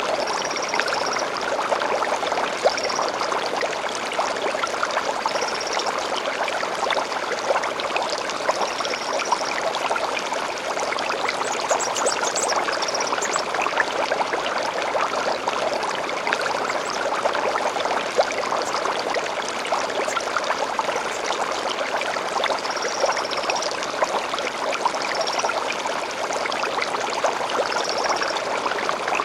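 Small stream babbling and splashing steadily, with a bird's short high chirps coming every few seconds over it and a quick run of higher notes about twelve seconds in.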